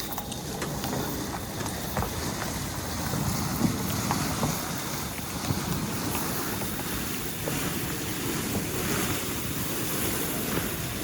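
A loaded super sack being dragged up the ground by rope, with steady scraping and rustling and wind buffeting the microphone.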